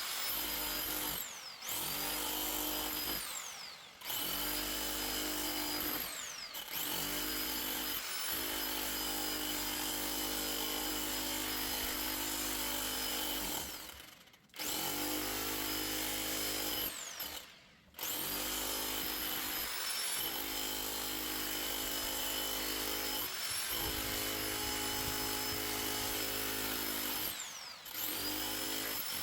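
Handheld electric power tool running in repeated bursts with short pauses between them. Its motor whine rises in pitch as it spins back up after each pause.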